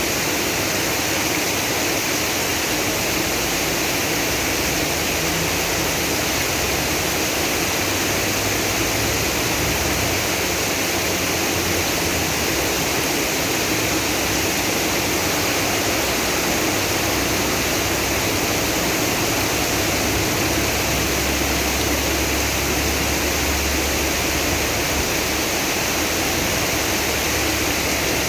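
Heavy rain pouring and floodwater rushing, a steady, unbroken noise of water.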